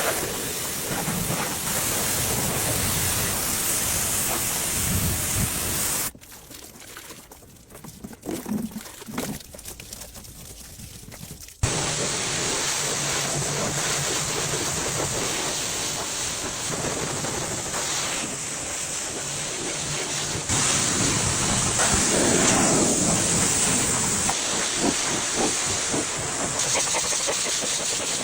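Steady loud hiss of a high-pressure cleaning spray. It stops for about six seconds partway through, then starts again abruptly with a sharp click.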